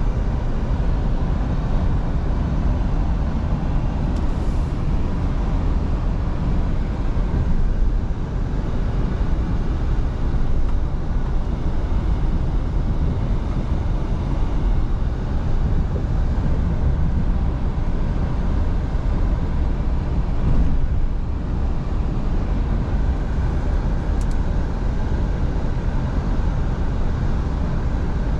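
Scania V8 diesel truck under way at a steady pace: a constant low drone of engine and road noise with no change in speed.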